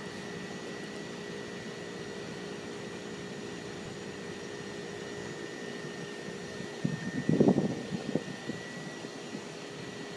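A machine running with a steady hum and a constant whine. A short burst of clattering knocks comes about seven seconds in, the loudest part, then dies away.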